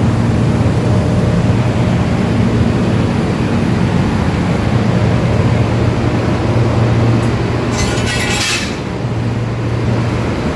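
Steady loud drone of running refrigeration machinery (compressors and condenser fans), with a low hum. A short hiss cuts in about eight seconds in.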